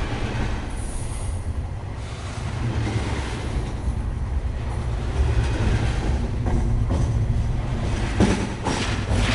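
A train rolling past: a steady low rumble, with a run of sharp clanks near the end.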